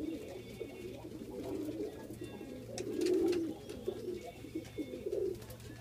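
Several Iraqi domestic pigeons cooing at once, low overlapping coos throughout, loudest about halfway through.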